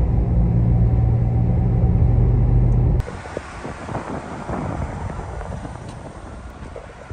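Steady low vehicle rumble that cuts off abruptly about three seconds in. A fainter, hissy background follows and slowly fades.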